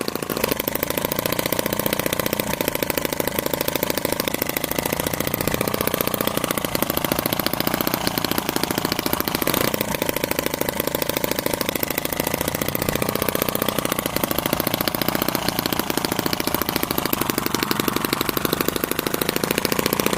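2.2cc miniature twin-cylinder four-stroke gasoline model engine running steadily, a fast, even stream of firing strokes that holds one speed throughout.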